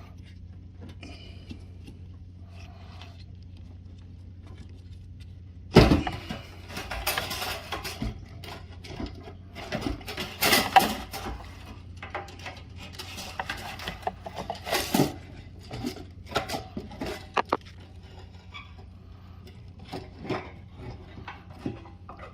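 Metal tools and parts being handled while a truck's fuel pump is swapped: a sharp knock about six seconds in, then irregular clinks, clatters and scrapes. A steady low hum runs underneath.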